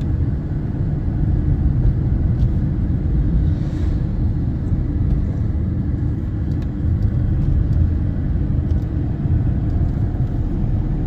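Steady low rumbling noise, even and unbroken, with no distinct events.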